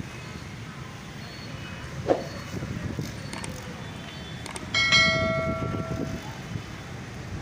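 Steady rumble of road traffic, with a brief sharp sound about two seconds in. About five seconds in, a loud bell-like ring fades away over about a second.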